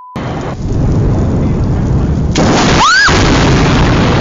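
Heavy rain and thunder rumbling through a thunderstorm, loud throughout and louder from about two and a half seconds in. A short steady beep ends right at the start, and about three seconds in a single brief cry rises and falls in pitch over the storm.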